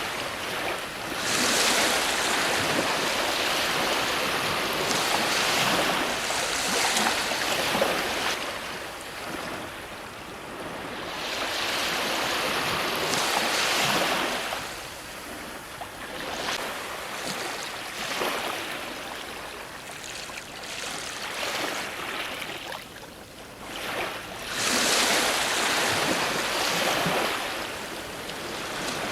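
Ocean surf: waves breaking and washing up the shore in slow surges, each rush of noise swelling and fading over several seconds, with quieter lulls between.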